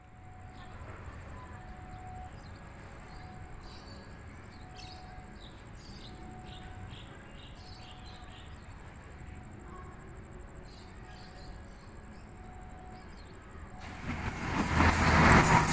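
A commuter train coming up close, its loud rushing rumble rising sharply near the end. Before it arrives there is only a low steady background with a thin high whine and a faint tone repeating about every two-thirds of a second.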